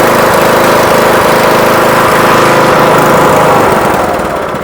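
Troy-Bilt Pony riding mower's Briggs & Stratton engine running steadily, its carburetor freshly cleaned of gummed-up stale ethanol fuel; the sound falls away near the end.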